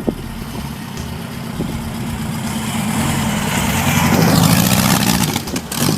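Air-cooled Volkswagen Beetle flat-four engine of a trike running in road traffic, the sound swelling to its loudest about four to five seconds in, then easing off.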